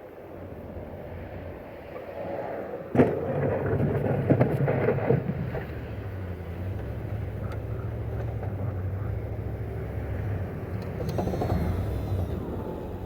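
An engine running with a steady low drone, after a sharp knock about three seconds in and a couple of seconds of clattering.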